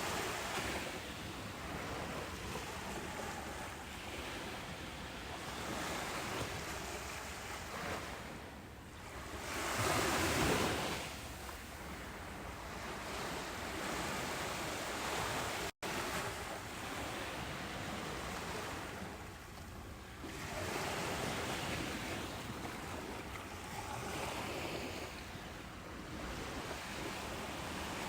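Ocean surf: waves breaking and washing up a beach in slow swells, the loudest wave about ten seconds in. The sound cuts out for a split second about halfway through.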